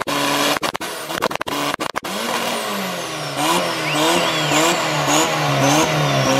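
Turbocharged VW Gol engine revved hard, stuttering with rapid cut-outs for the first two seconds as it bounces off the rev limiter. It is then blipped up and down over and over, the pitch rising and falling about once a second, with a brief high whistle about four seconds in.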